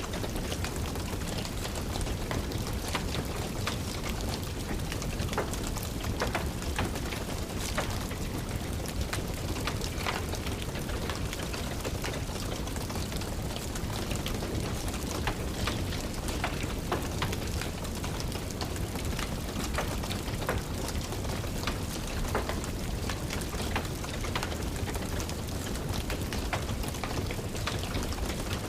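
Steady rain falling, mixed with the irregular small crackles and pops of a wood fire burning in a fireplace.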